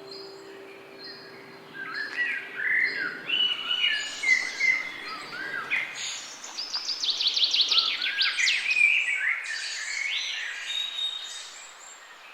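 Songbirds singing: many short chirps and whistled notes, with a fast descending trill about halfway through. A held low musical note fades out over the first two seconds before the birds start.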